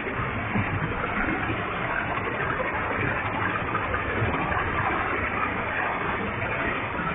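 Waterfall with a heavy flow, water pouring and splashing in a steady, unbroken rush.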